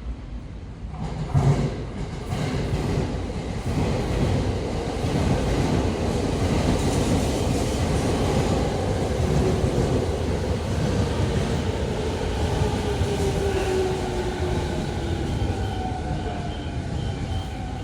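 A 15-car Sobu Line rapid train pulls into the platform and brakes, its wheels clattering over the rail joints. Its motor whine slowly falls in pitch as it slows. A brief loud thump comes about a second and a half in.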